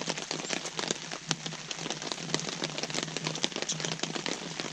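Steady rain falling on a Kelty nylon tarp overhead, many separate drops striking it irregularly over a constant hiss.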